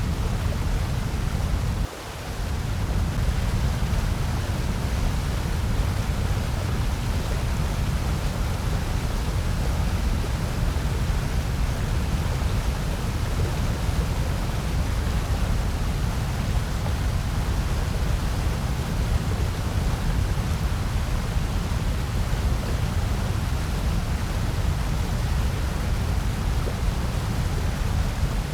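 Steady generated noise, an even hiss heavier in the low end, with a brief drop in level about two seconds in.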